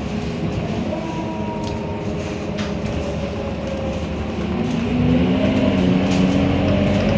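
Scania K230UB bus's five-cylinder diesel engine running low and even for a few seconds, then its pitch and loudness rising steadily from about four and a half seconds in as the bus accelerates. Light ticks and rattles sound over it.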